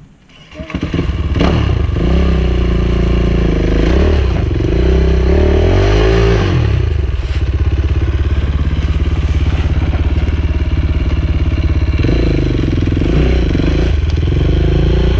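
Enduro dirt bike engine that comes in loud about half a second in and keeps running under changing throttle, its pitch rising and falling several times.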